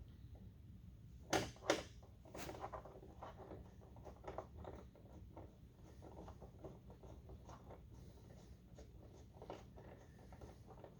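Light metallic clicks and taps of a bolt being fitted and hand-tightened into a truck door: two sharper knocks about a second and a half in, then a run of small irregular ticks.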